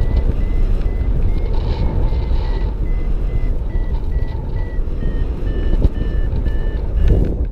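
Paragliding variometer beeping: short beeps about two or three a second, their pitch drifting slightly, the beeping a vario gives in rising air. Heavy wind rumble from the airflow on the microphone underneath.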